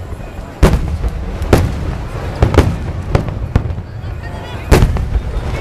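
Aerial fireworks shells bursting overhead: about seven sharp booms at uneven intervals, the loudest about half a second in and near the end, over a continuous rumble and the chatter of the watching crowd.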